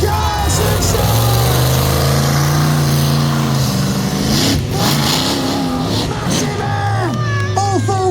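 Monster truck engine revving hard for a jump: the note climbs for about two seconds, holds, then drops away, with a brief break about four and a half seconds in. Music plays underneath.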